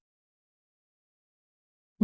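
Digital silence: a blank gap with no sound at all.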